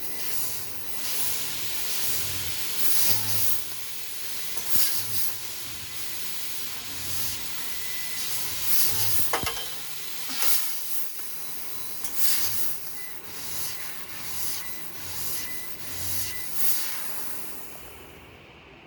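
CNC laser tube-cutting machine at work: the assist gas hisses steadily and flares up in repeated short bursts as the cutting head pierces and cuts the tube, with a low machine hum between the bursts.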